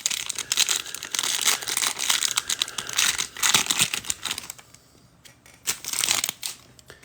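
A trading-card pack wrapper being torn open and crinkled, in a dense run of rustling that eases off about four and a half seconds in, then one more short burst of crinkling near the end.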